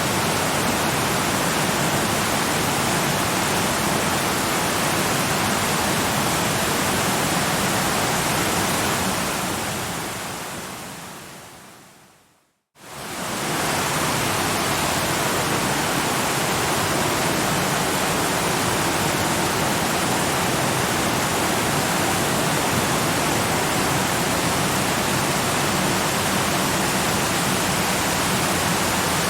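Steady rushing of a waterfall. About nine seconds in it fades out over a few seconds to a brief moment of silence, then swells back quickly.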